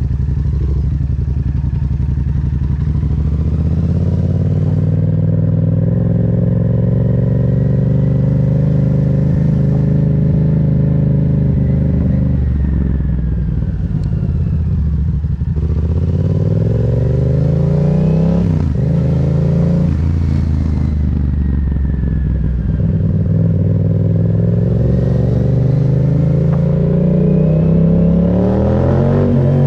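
Yamaha MT-07's 689 cc parallel-twin engine running under way, its revs repeatedly rising and falling as the bike accelerates, shifts gear and slows.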